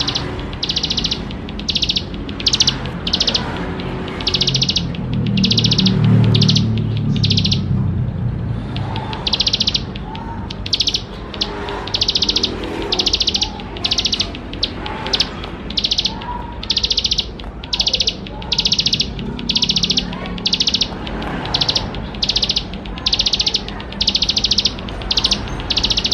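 Ciblek sawah, a prinia, singing a long run of short, rapid rattling trills, roughly two a second, with a brief pause about a third of the way in. A low rumble runs under the song about a quarter of the way in.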